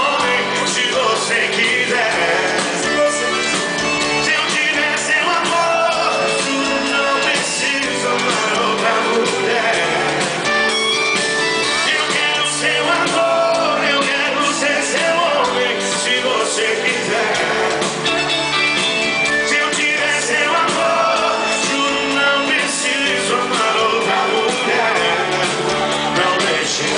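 Live sertanejo band playing a song with a lead vocal over guitar and a steady drum beat, loud and unbroken.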